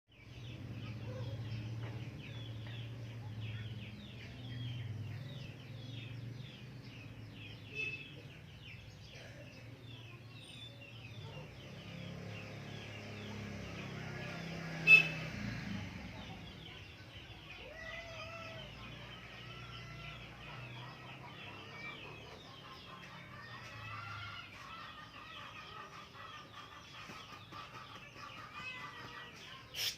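Many birds chirping steadily with clucking like chickens, over a low hum. A single sharp click sounds about halfway through.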